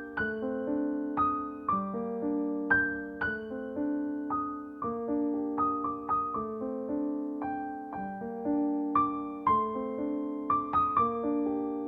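Background music: a gentle piano tune, single notes and chords struck in an even rhythm, each dying away.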